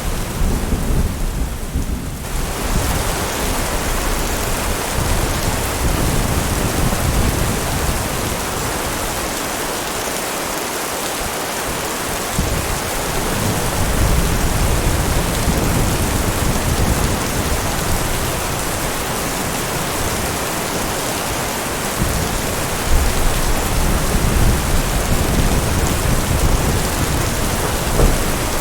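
Steady heavy rain hissing, with low rolling thunder that swells and fades several times underneath.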